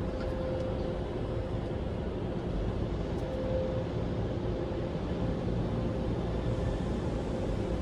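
Steady low mechanical rumble with a faint steady whine, typical of vehicle and car wash machinery running.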